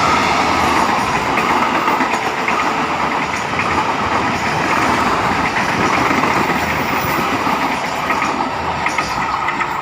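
A train passing close by: the steady, loud running noise of its wheels on the rails, with scattered clicks.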